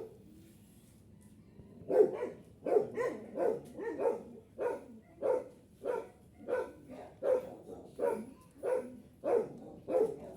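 A dog barking over and over, starting about two seconds in, at a steady pace of nearly two short barks a second.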